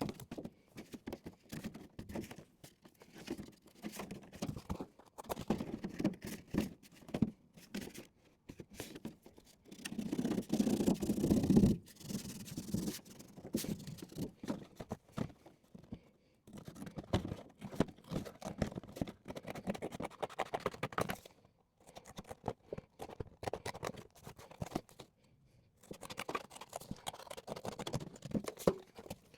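Irregular scratching and rubbing by hand, with many small clicks, and a louder steady rasp about ten seconds in that lasts about two seconds.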